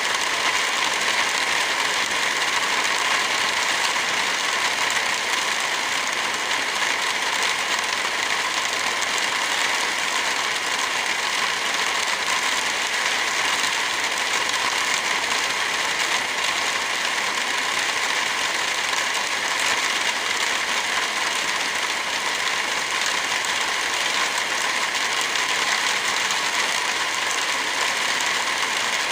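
Heavy rain falling, a steady even hiss with no break or change.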